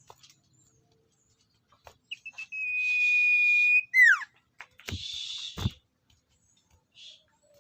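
A bird's call, probably the sirtu that the recording is meant for: a few short notes, then one long steady high whistle that ends in a quick downward slide. About a second later comes a short harsh, hissing burst with a low thump.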